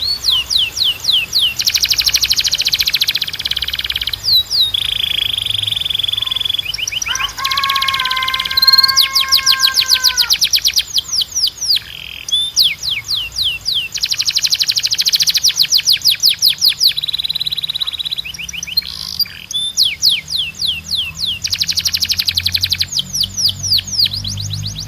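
Timbrado canary singing: fast trills of quick falling notes alternate with held whistled notes, and a lower ringing held note comes about seven seconds in.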